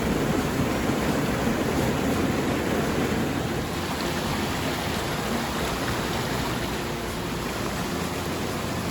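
Steady rushing of falling water from Troll Falls.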